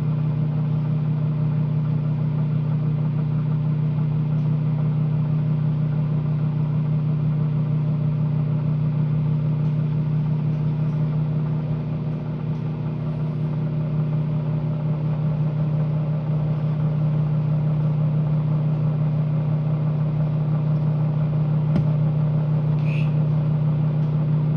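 Microwave oven running with a steady low hum, with a sharp click near the end of the run.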